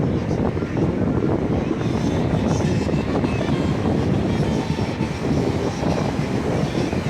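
Wind buffeting the microphone: a steady, dense low rumble that flickers rapidly.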